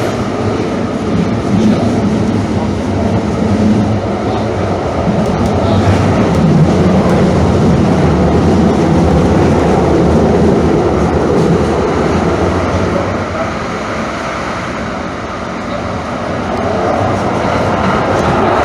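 Calgary CTrain light rail car running, heard from inside the car: a steady rumble of wheels and running gear that eases slightly about fifteen seconds in, then builds again.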